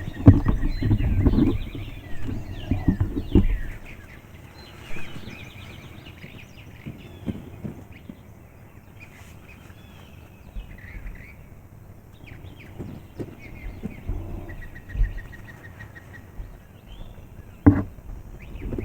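Songbirds chirping and singing, with one quick trill in the later half. Low rumbles and bumps fill the first few seconds, and a single sharp click comes near the end.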